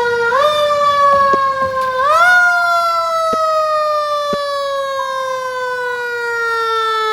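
Fire engine siren wailing: its pitch rises quickly twice, near the start and about two seconds in, then glides slowly down. A couple of sharp clicks come partway through.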